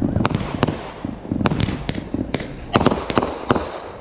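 Fireworks going off: an irregular string of sharp bangs and cracks, coming thickest about three seconds in.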